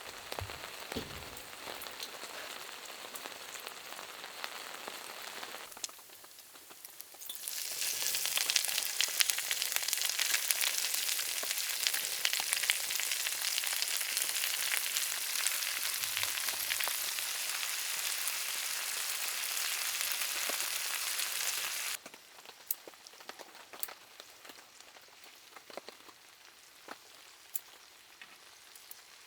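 Rain pattering, then food sizzling loudly in a hot pan, dense with small crackles, for about fifteen seconds. It cuts off abruptly, leaving a much quieter sizzle with scattered pops.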